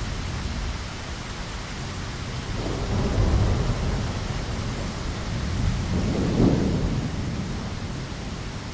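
Steady rain hiss with thunder rumbling low beneath it, swelling twice, about three seconds in and again about six and a half seconds in.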